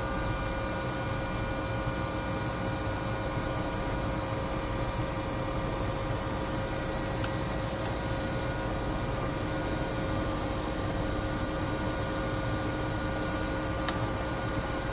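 Helicopter cabin interior: the engine and rotor make a steady drone, several held whining tones over an even rushing noise, unchanging throughout. A faint tick sounds near the end.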